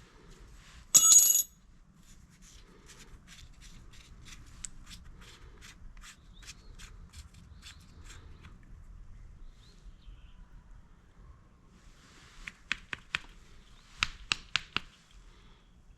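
Metal hand tools and parts clinking during work on a small engine: one sharp ringing metallic clink about a second in, then a run of light, evenly spaced clicks, and a few sharper clicks near the end.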